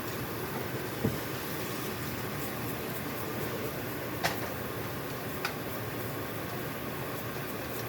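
Steady fan-like hiss of kitchen background noise, broken by a short low knock about a second in and two sharp clicks, one about four seconds in and a fainter one a little over a second later.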